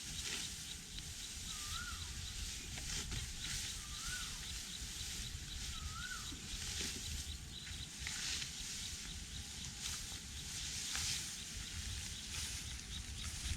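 Open-field ambience: wind rumbling on the microphone and dry rustling, with a bird giving a short whistled call that rises and falls, three times about two seconds apart.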